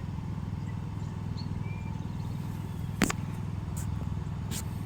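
A few faint, short bird chirps over a steady low rumble. A sharp click about three seconds in is the loudest sound, followed by two fainter clicks.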